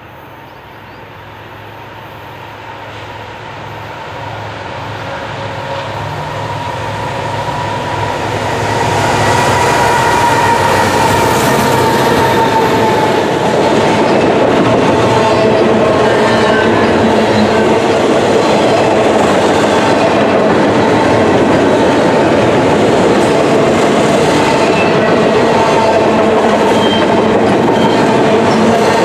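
A CN double-stack intermodal freight train approaching and passing: the diesel locomotives leading it grow steadily louder and pass about nine seconds in. After that the container cars roll by with steady, loud wheel-on-rail noise.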